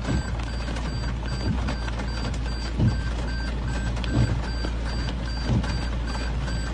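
Rapid electronic beeping, about two to three short beeps a second, over a steady low hum, with a soft low thud about every second and a half.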